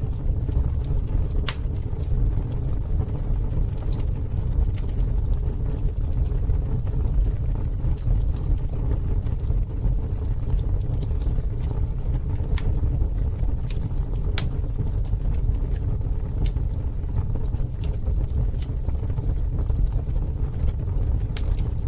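Campfire burning: a steady low rumble with scattered sharp crackles and pops every second or two.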